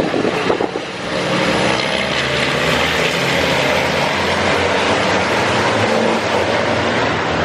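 A pack of racing trucks' diesel engines running hard at the rolling start, a continuous loud roar of several engines at once, with a few sharp knocks in the first second.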